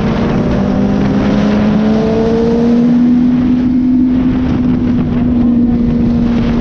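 Suzuki GSX-R sport bike's inline-four engine running under way at speed, its note rising a little and then easing about halfway through, with constant wind rush.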